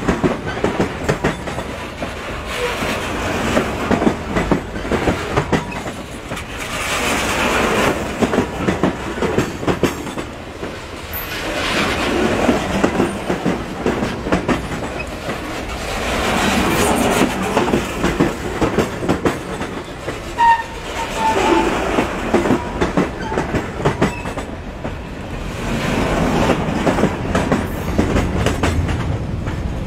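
Passenger train running, its wheels clattering over the rail joints, swelling louder and fading back every few seconds.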